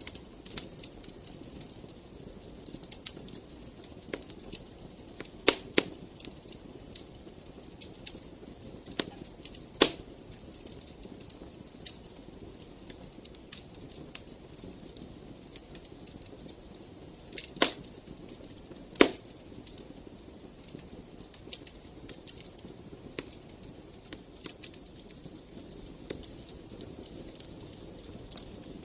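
Fireplace fire crackling: irregular sharp pops and snaps over a low, steady rush of flame, with a few louder pops scattered through.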